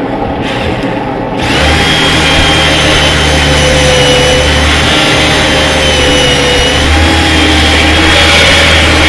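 Handheld electric power tool running under load, stripping paint off an old metal sign. Its motor whine wavers a little in pitch as the pressure changes. It is softer for the first second or so, then runs steady and loud.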